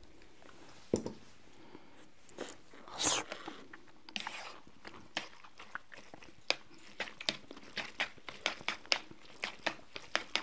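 Close-miked eating: biting and chewing with sharp crunchy clicks, one louder bite about three seconds in, then a steady run of about three chewing clicks a second.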